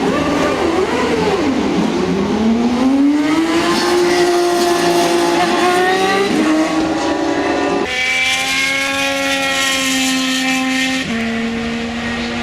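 IndyCar racing car engine at high revs: the note wavers up and down at first, climbs and holds high, then drops suddenly to a lower steady note twice, about eight and eleven seconds in.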